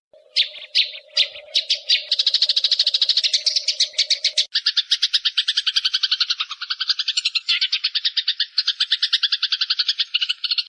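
Eurasian tree sparrows fighting: a dense, rapid stream of harsh chirps, many a second. A steady low hum runs under the first half.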